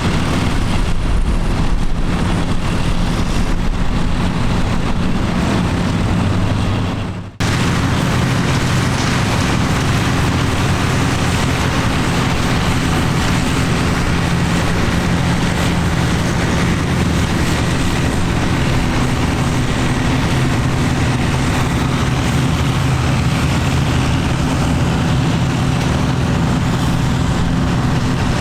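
Vintage tractor engine running steadily. About seven seconds in the sound cuts off abruptly and another engine picks up at once, also running steadily.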